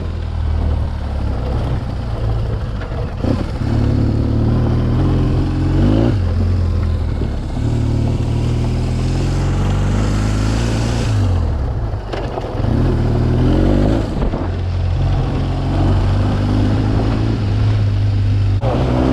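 BMW R 1200 GS boxer-twin engine with an SC Project aftermarket exhaust running under way, its revs climbing and dropping back several times through gear changes.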